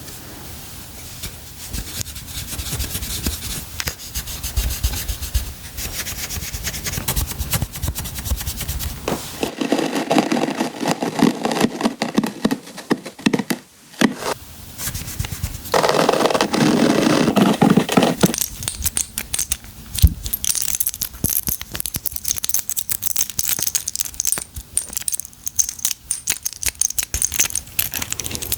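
Hands unboxing and handling packaging and beauty products close to the microphone: scratching and rubbing with many small clicks and taps. There are two louder stretches of rustling about a third of the way in and just past halfway, and lighter, brighter clicking in the last third.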